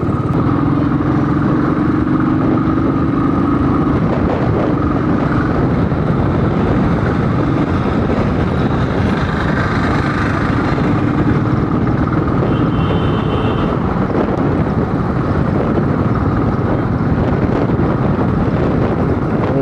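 Royal Enfield Thunderbird single-cylinder motorcycle engine running steadily while riding through city traffic, mixed with road and traffic noise.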